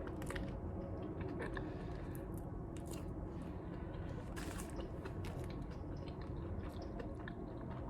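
A person chewing food close to the microphone, with irregular wet mouth clicks and a few soft crunches.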